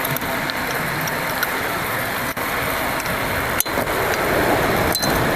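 Steady background road traffic noise.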